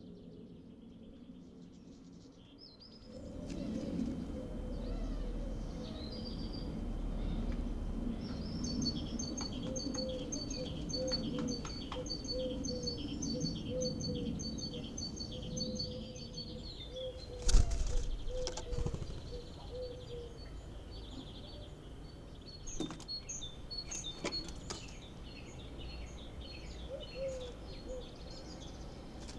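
Birds chirping: a fast run of high, evenly repeated notes over a lower repeated note, starting about three seconds in. About halfway through comes a single sharp knock, followed by scattered chirps.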